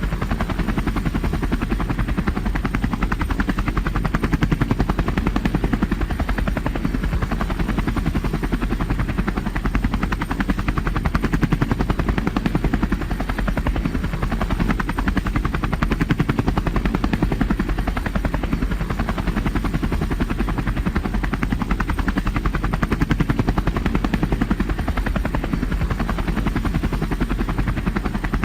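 Helicopter in steady flight, its rotor chopping in a fast, even rhythm over a loud, unbroken engine and rotor drone.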